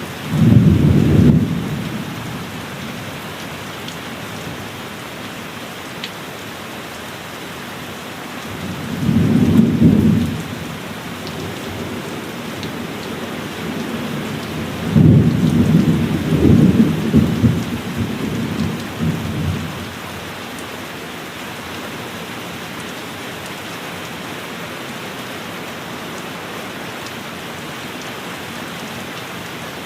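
Heavy rain falling steadily, with thunder rumbling three times: a sudden clap right at the start, another about nine seconds in, and a longer rolling peal from about fifteen to twenty seconds in.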